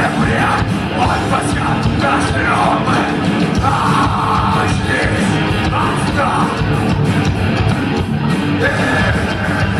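Thrash metal band playing live: loud, dense distorted guitars and drums with shouted vocals.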